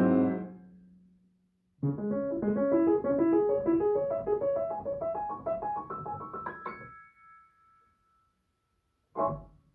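Piano played with both hands: a chord fading out, then after a short pause a rising run of notes that ends on a high held note and fades. Near the end, one brief chord sounds and stops.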